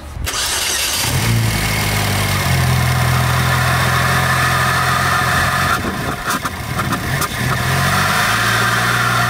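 Turbocharged Chevrolet Cobalt SS four-cylinder engine starting and settling into a steady idle about two and a half seconds in, with a strong hiss from the open cone-filter intake.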